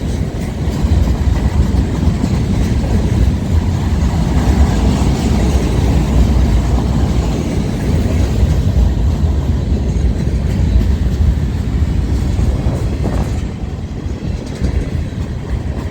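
Freight train cars rolling past on the rails: a loud, steady rumble that eases off a little in the last couple of seconds.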